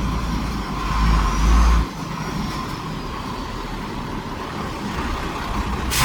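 Heavy diesel machinery engine running under load. The rumble drops off sharply about two seconds in, then runs on lower, with a short hiss near the end.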